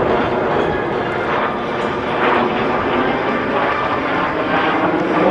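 Aero L-39 Albatros jets' turbofan engines running as the jets fly their display; a steady, loud jet noise.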